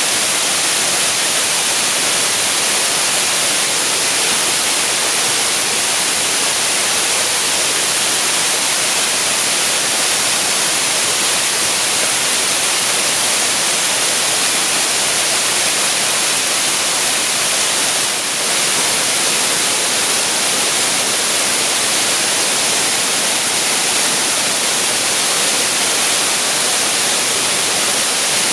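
Waterfall pouring: a steady, loud hiss of falling water that holds constant throughout, with its weight in the higher pitches.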